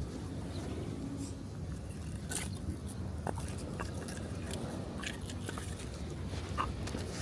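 Wood campfire crackling, with scattered sharp pops and snaps a second or so apart, over a steady low wash of surf.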